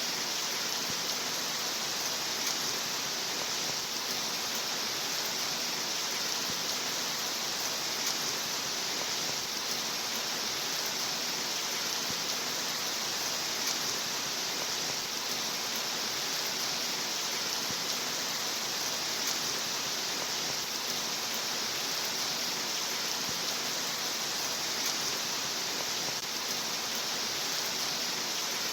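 Steady rain falling, an even hiss with faint scattered drop ticks that does not change.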